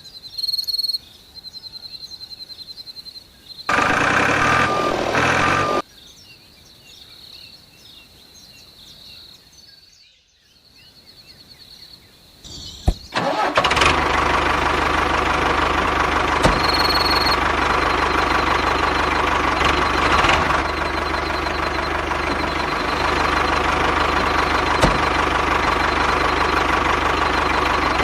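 Small engine of a homemade mini tractor starting a little under halfway through, then running steadily at a constant pitch. Before it starts there are quieter mixed sounds with one louder stretch of about two seconds.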